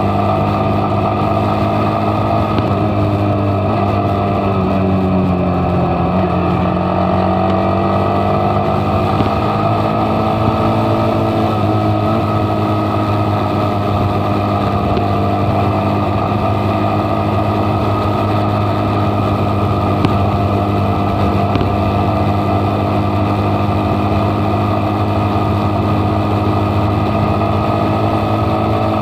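Motorcycle engine running steadily while riding, its pitch dropping as it eases off about five seconds in, then rising back to a steady run.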